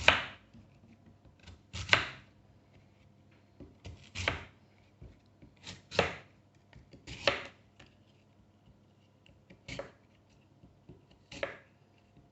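A small kitchen knife chopping an apple on a chopping board: about seven separate cuts, one every couple of seconds, each ending in a sharp knock of the blade on the board.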